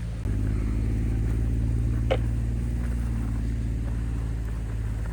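A mini excavator's diesel engine runs steadily and picks up load about a quarter second in, then holds an even working pitch.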